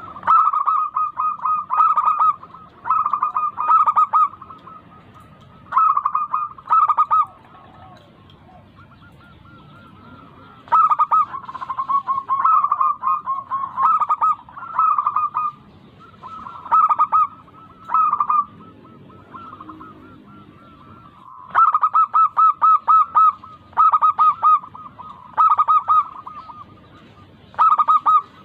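Zebra doves (local perkutut) singing: bursts of quick, staccato coos pitched around one kilohertz, repeated in phrases with short pauses between them.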